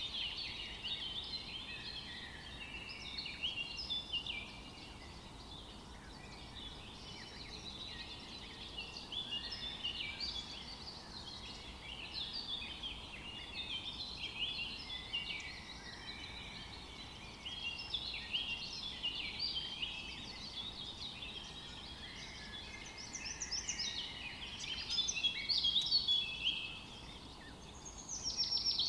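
Several songbirds singing over one another in a forest, a dense mix of quick chirps, trills and short sweeping notes, busiest and loudest a few seconds before the end.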